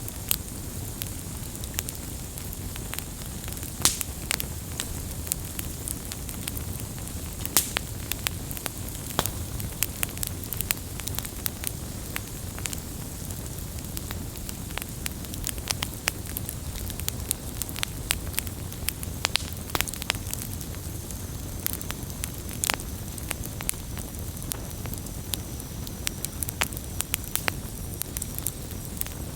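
Wood campfire burning, with a steady low rumble of the flames and frequent irregular crackles and sharp pops of the burning wood.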